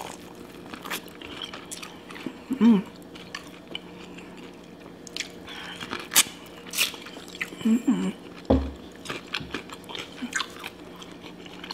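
Close-miked biting and chewing of crispy fried chicken wings dipped in sauce: scattered crunches of the breading with wet mouth sounds. Two short hums from the eater come about three and eight seconds in.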